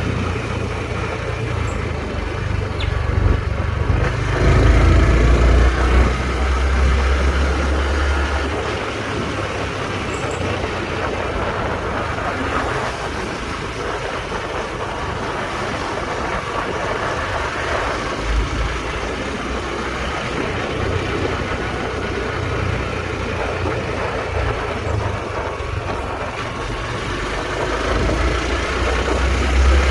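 Honda Trail 125's small single-cylinder engine running on the move, with wind rushing over the microphone. Heavy low wind rumbles swell about four to eight seconds in and again near the end.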